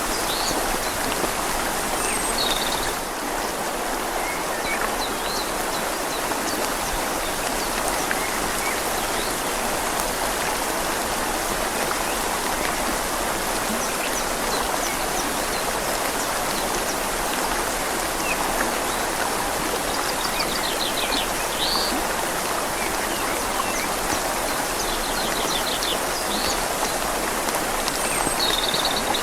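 Steady rushing flow of a river mixed with rain falling on leaves and water, an even hiss with no letup. A bird chirps a few times high above it, about twenty seconds in and again near the end.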